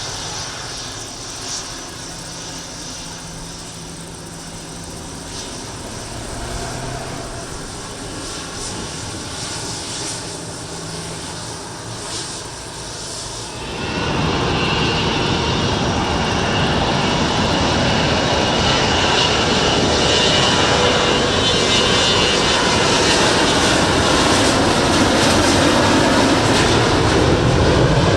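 Gulfstream G550 business jet's twin Rolls-Royce BR710 turbofans running, at first at a moderate level with a low steady hum. About halfway through they suddenly get much louder, a full jet roar with a steady high whine that holds to the end, as the jet takes off.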